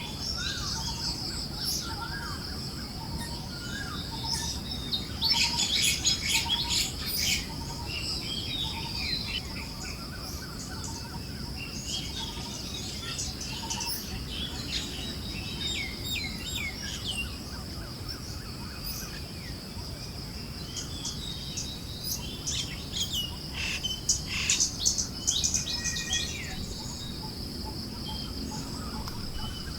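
Forest birds chirping over a steady high insect-like buzz and a soft low rush of wind. The chirping thickens in two busier spells, one about five seconds in and another about twenty-three seconds in.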